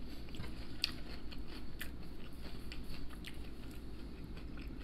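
A man chewing a mouthful of fried food with his mouth closed, with scattered soft wet mouth clicks.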